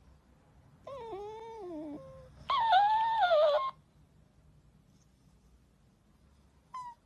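A pet animal making two drawn-out, wavering wailing calls, the second louder, followed by two short high chirps near the end.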